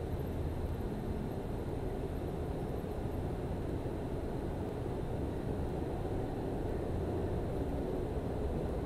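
Yamaha MT-10's crossplane inline-four engine idling steadily, a low, even rumble.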